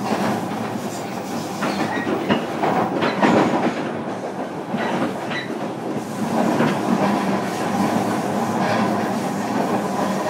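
JR Kyushu 305 series electric train running, heard from inside motor car Moha 305-102: steady rolling noise with the wheels clicking over rail joints every second or two.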